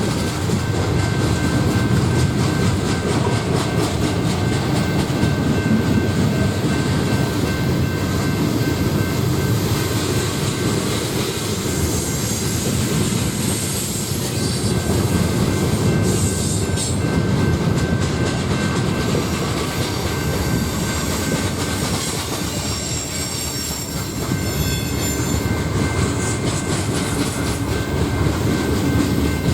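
A freight train rolling steadily past, its steel wheels rumbling on the rails with a thin, steady squeal above the rumble.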